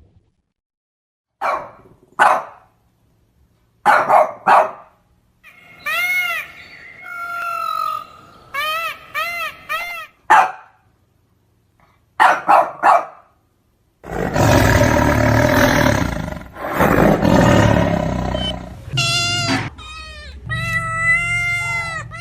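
A string of animal calls cut one after another: short sharp calls in pairs, a run of rising-and-falling pitched cries, a long rough roar-like call about two-thirds through, and wavering pitched cries near the end.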